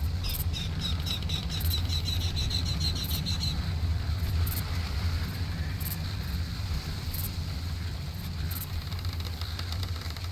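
A bird chirping rapidly, a quick run of short high notes at about four or five a second for the first three seconds or so, with fainter chirps near the end, over a steady low rumble.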